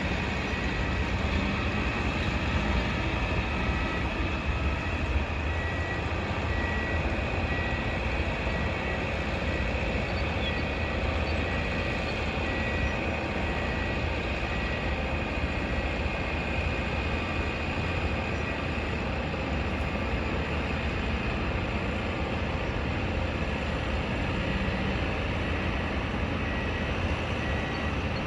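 Construction-site and street ambience: a steady low rumble of heavy machinery and traffic, with a faint high-pitched beeping tone coming and going through it.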